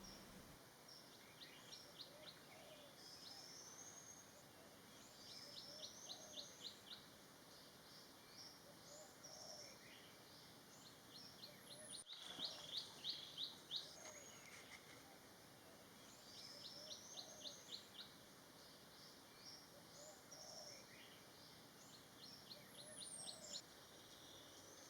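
Forest birds calling faintly: short runs of rapid high notes, about ten a second, alternating with rising whistled phrases, repeated over and over with short gaps.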